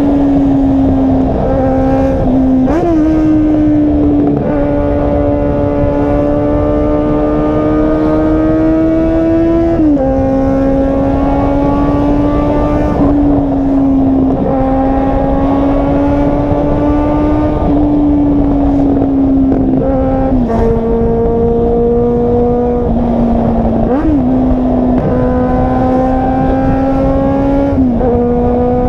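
Car engine held at high revs for long stretches, its pitch steady with small rises and dips every few seconds as the throttle is adjusted.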